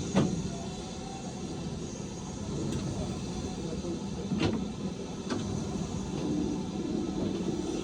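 A heritage train running with a steady rumble, with a sharp knock just after the start and two more about four and a half and five seconds in.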